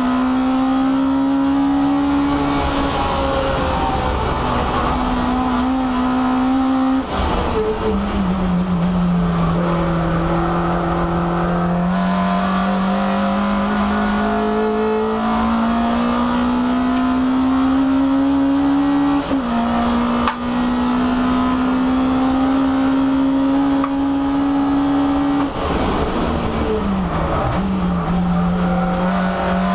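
Peugeot 306 race car's four-cylinder engine heard from inside the stripped cabin at racing speed. Its pitch climbs steadily with short sudden drops, and falls away sharply twice, about seven seconds in and near the end.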